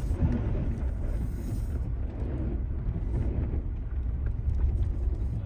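Off-road vehicle driving slowly over a rough, rutted dirt track: a steady low rumble of engine and tyres with scattered light knocks and rattles.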